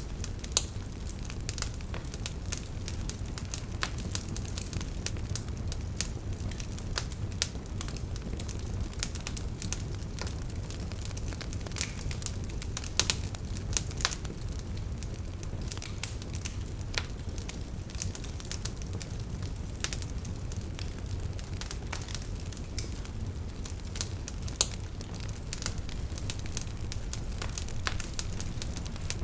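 Campfire of burning firewood crackling, with frequent irregular sharp pops and snaps over a steady low rumble of the flames.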